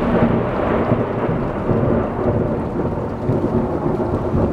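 Heavy rain pouring down: a loud, dense, steady rush with a deep, uneven rumble underneath.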